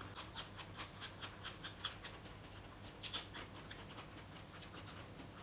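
Close-miked crunching and chewing of raw green vegetables, crisp clicks about five a second at first, then fewer and fainter.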